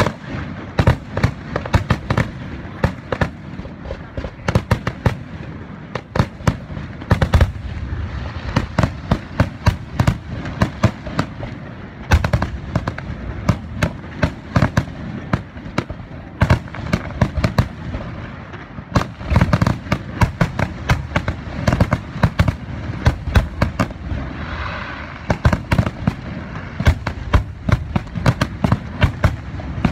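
Aerial firework shells bursting in a dense barrage: many sharp bangs, often several a second, with crackling and a low rumble between them.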